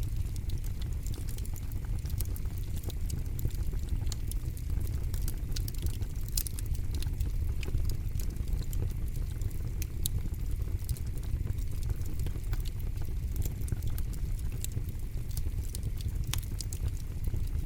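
Wood campfire burning, crackling and popping in many sharp irregular snaps over a steady low rumble.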